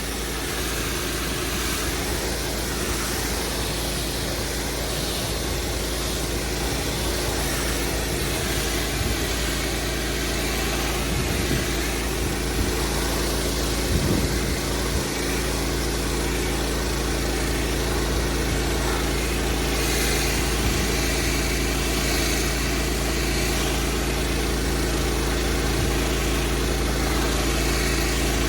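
Petrol pressure washer engine running steadily under a constant hiss.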